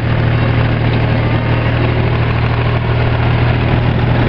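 Tractor engine running steadily with a constant low hum as the tractor is driven along.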